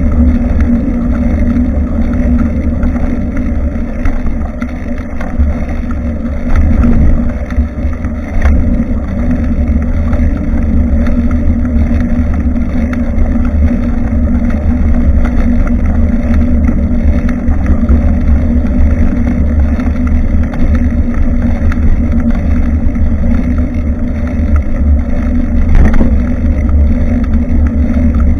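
Steady low rumble of wind buffeting and road vibration picked up by a rear-facing action camera on a moving bicycle, with a couple of short knocks.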